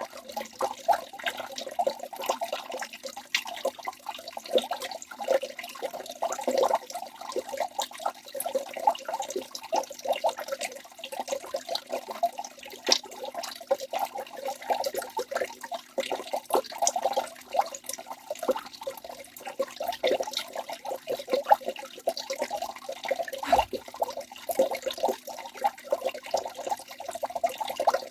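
Water of a small forest waterfall splashing and gurgling continuously, with many small irregular splashes.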